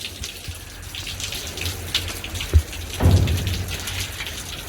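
Heavy rain falling, with sharp close drop hits over a steady hiss and a low rumble that swells about three seconds in.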